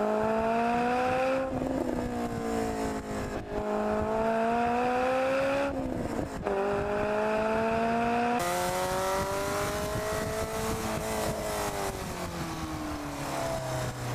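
Lotus sports car's engine pulling hard through the gears, heard from the car itself: the pitch climbs and drops sharply at quick upshifts about one and a half, three and a half and six seconds in. Later it rises more slowly once more, then falls away as the car slows.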